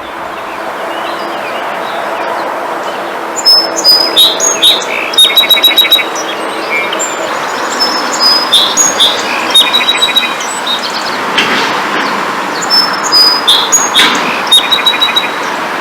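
Songbirds chirping in three runs of quick, repeated high calls, the loudest sounds, over a steady rushing background noise.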